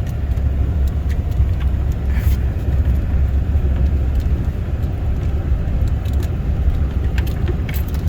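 Truck driving through snow, heard from inside the cab: a steady low rumble of engine and tyres, with scattered light clicks and rattles.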